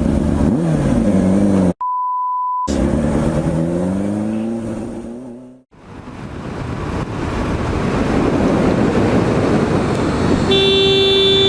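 Motorcycle engine revving and accelerating, its pitch rising through the gears, broken about two seconds in by a one-second censor bleep. The engine fades out about halfway through and a growing rush of wind and road noise follows, then a vehicle horn starts to sound near the end.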